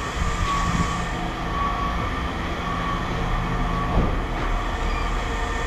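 Steady low mechanical rumble of heavy machinery running, with a faint steady whine and a single knock about four seconds in.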